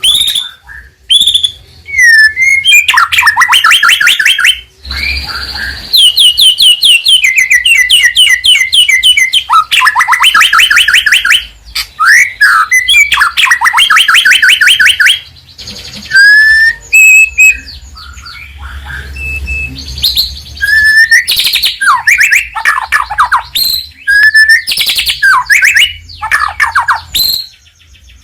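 A white-rumped shama (murai batu) singing in full voice: loud, varied runs of rapid repeated whistled notes and trills, with short pauses between phrases.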